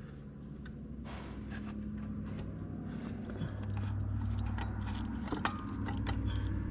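Scattered clicks and scrapes of hand work on a tractor's fan belts and pulleys, over a steady low rumbling hum that grows louder over the first few seconds and then holds.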